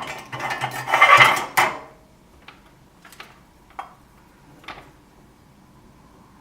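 Small metal tools and parts clattering and scraping on a workbench during relay soldering on a refrigerator control board: a loud scraping rattle lasting about a second and a half, then a few light clicks spaced out over the next few seconds.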